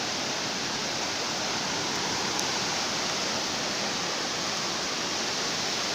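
Steady, even rush of water from a heavy downpour and flash-flood water.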